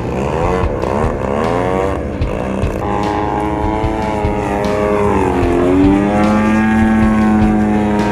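Desert Aircraft DA-120 twin-cylinder two-stroke gas engine of a giant-scale RC aerobatic plane in flight. Its pitch wavers quickly up and down for the first couple of seconds, then holds high and steady, with a brief dip and rise a little past halfway.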